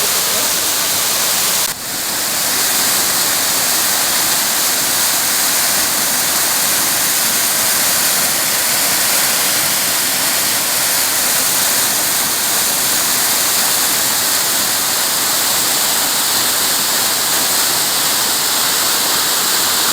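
Waterfall rushing, a steady loud hiss of falling water, with a brief dip in level a little under two seconds in.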